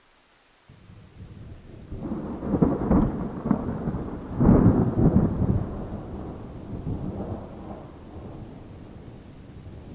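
A roll of thunder: it starts suddenly under a second in, builds into a deep rumble with two loudest crashes about 2.5 and 4.5 seconds in, then slowly dies away.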